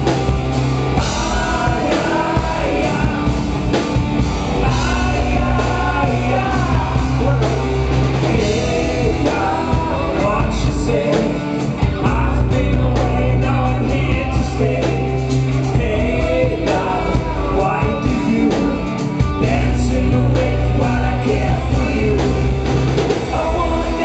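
Live rock band playing loudly, a stretch without lyrics: a melodic lead line bending in pitch over a steady bass and drums.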